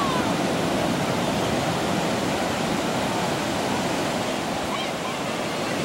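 Pacific Ocean surf breaking and washing onto the beach: a steady, unbroken rush of waves.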